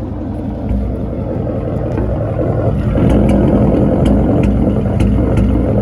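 Bolt-on E85 5.0 V8 idling rough with irregular pops from a misfire, getting louder about three seconds in. The owner's best guess is worn coil packs and spark plugs.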